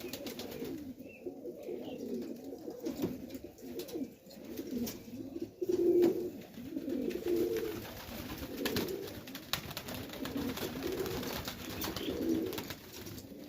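Several domestic pigeons cooing continuously, low overlapping coos with a few light clicks, like wing flaps or feet on the loft.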